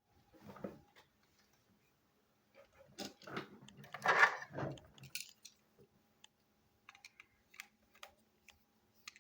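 Plastic toy train pieces being handled: scattered small clicks and rattles, with a louder stretch of rattling and knocking about three to five seconds in, then a few light clicks.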